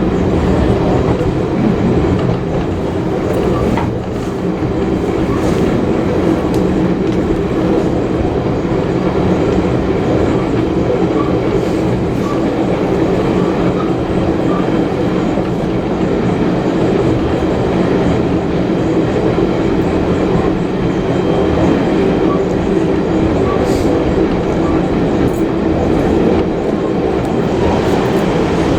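Heritage railway passenger carriage running at speed: a steady rumble of wheels on rail, with a few faint clicks here and there.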